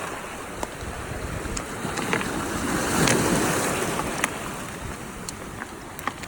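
Sea surf washing on the shore, with wind buffeting the microphone; the wash swells about three seconds in, and a few light clicks sound through it.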